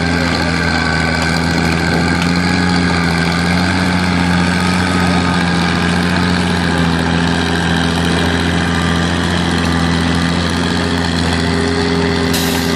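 Massey-Harris 101 tractor engine running steadily at high revs under load, pulling a sled, its pitch holding even throughout.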